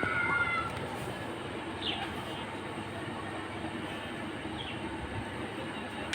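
A steady rumbling noise, with a bird's short, high, falling call a few times, about every two to three seconds.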